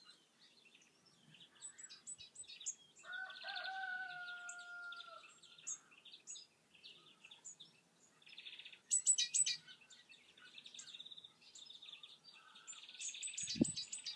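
Birds chirping and singing, with many short high chirps and trills, and one longer held two-tone call about three seconds in. A brief dull bump near the end.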